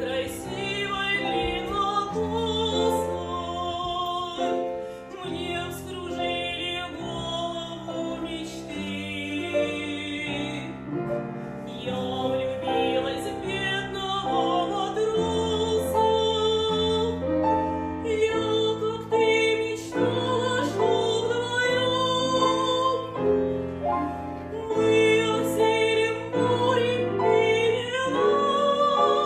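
Operatic female voice singing with vibrato over piano accompaniment.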